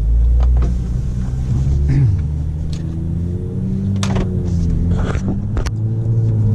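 BMW M235i's turbocharged straight-six running through an ARMYTRIX aftermarket exhaust while the car is driven at moderate revs. The drone drops in pitch about two seconds in, then climbs slowly, with a few sharp clicks in the second half.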